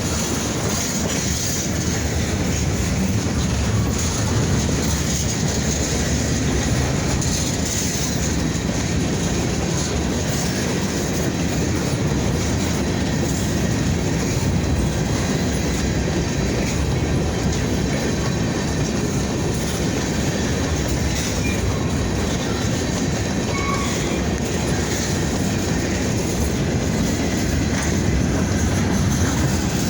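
Kiamichi Railroad freight train rolling past, its steel wheels running steadily over the rails.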